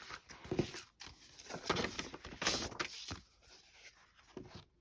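Paper rustling and sliding as greeting cards and papers are handled and shuffled, in irregular soft bursts with a few light taps.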